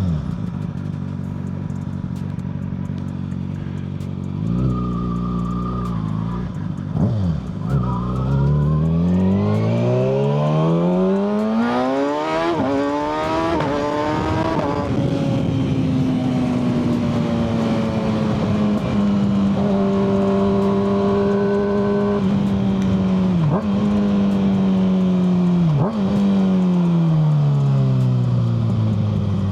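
Kawasaki ZX-6R 636's inline-four through a Yoshimura full exhaust, heard from the rider's seat: steady running at first, then a long rise in pitch as it accelerates up through the revs, a steady cruise with two brief dips, and a falling pitch as it slows near the end.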